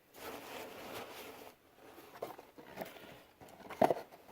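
Handling noises: rustling for about the first second and a half, then light clicks and scrapes with one sharper knock near the end, as the old oil filter cartridge is handled and set into a cardboard filter box.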